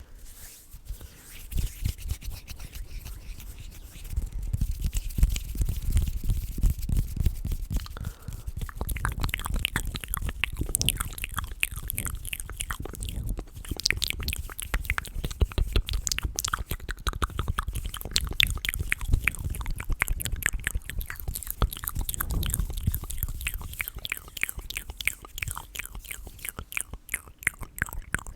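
ASMR mouth and hand sounds close to the microphone: a dense run of small wet clicks over a low rubbing rumble, getting busier about nine seconds in.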